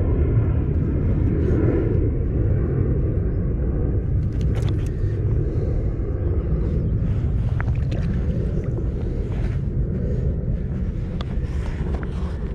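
Wind buffeting the microphone: a steady low rumble, with a few faint clicks of handling.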